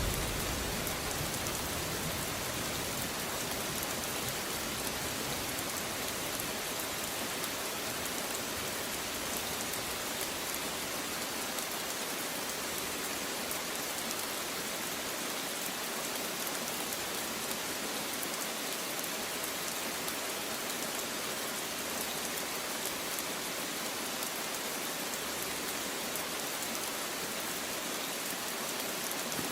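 Rain falling steadily, an even hiss of drops striking a surface.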